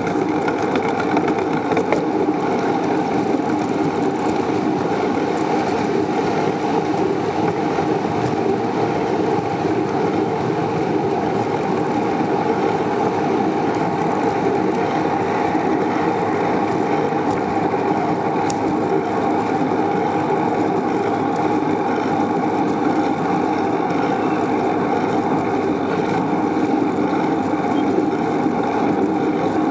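Steady noise of riding a bicycle: wind and tyre rumble picked up by the camera on the moving bike, with no breaks or sudden sounds.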